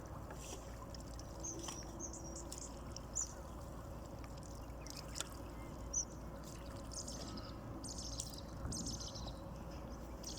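Water trickling and dripping off a gill net as it is hauled in, with scattered short, high bird chirps and a few sharp ticks.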